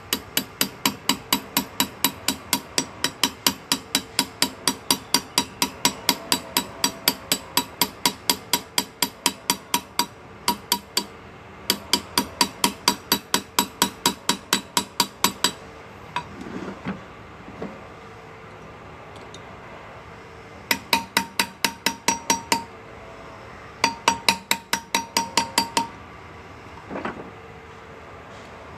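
Small hammer tapping a hand-engraving chisel into metal, about four to five light strikes a second, each with a short metallic ring. The strikes come in several runs broken by brief pauses.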